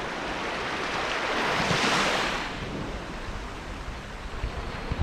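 Small, gentle waves washing onto the shore of a calm inlet. One wash builds to a peak about two seconds in and then fades away.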